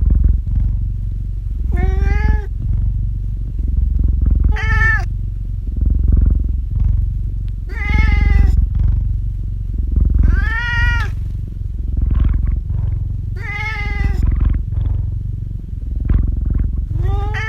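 A domestic cat meowing about six times, a few seconds apart, each meow short with a rise and fall in pitch, over a steady low purr.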